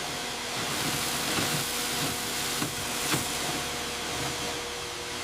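A small motor-driven tool running steadily with a loud hiss and a steady hum, with a few light clicks about a third and halfway through.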